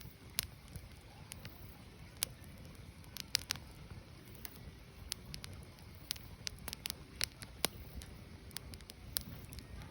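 Firewood burning: irregular sharp crackles and pops, some louder than others, over a low steady rumble from the fire.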